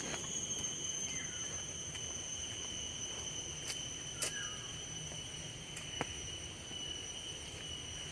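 Steady high-pitched insect drone over low outdoor noise, with a few faint clicks and two short falling chirps.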